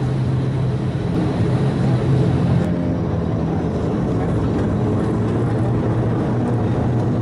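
Twin turboprop engines and propellers of an ATR 72-600 heard from inside the cabin, a steady loud drone made of several low steady tones, whose pitch shifts slightly about three seconds in.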